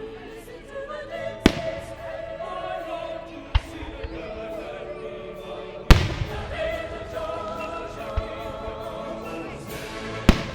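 Fireworks shells bursting, about five sharp booms spread through, the loudest about six seconds in, over choral music with a choir singing.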